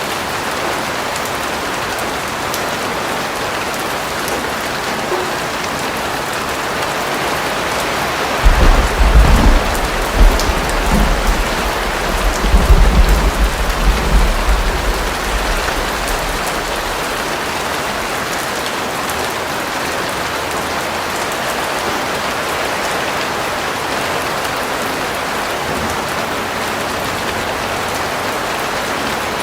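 Steady rain falling on a surface, an even hiss throughout. About eight seconds in, a deep roll of thunder rumbles for several seconds, loudest at the start and fading out.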